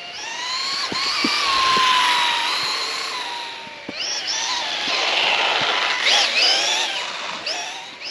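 Losi Promoto RC dirt bike's electric motor whining, its pitch rising and falling as the throttle is worked, over a rushing noise of the tyres on the ground. The whine climbs about a second in, sags slowly, dips briefly about four seconds in, then swings up and down again near the end.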